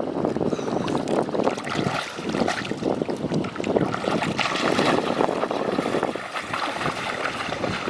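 Water splashing and sloshing in irregular strokes, with wind buffeting the microphone.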